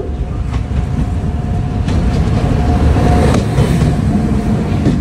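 Rumble and clatter of a moving train heard from an open coach door as an oncoming Indian Railways electric locomotive passes close on the next track. The noise builds about three seconds in as the locomotive comes alongside, with a few sharp clicks and a faint steady tone underneath.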